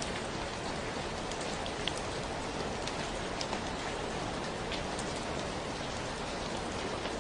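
Steady rainfall, an even hiss with scattered individual drops ticking on a hard surface.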